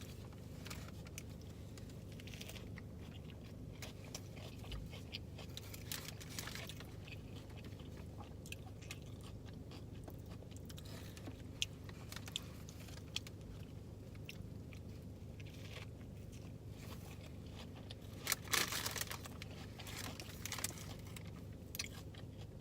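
A person chewing and biting into a veggie sandwich close to the microphone: soft crunches and mouth noises, louder around six seconds in and again near eighteen seconds, over a steady low hum.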